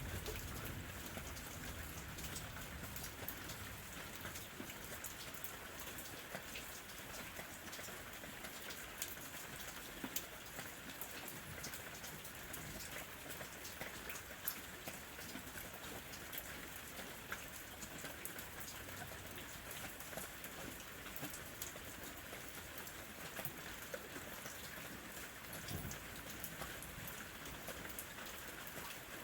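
Gentle rain falling steadily: an even hiss with many separate drop ticks scattered through it.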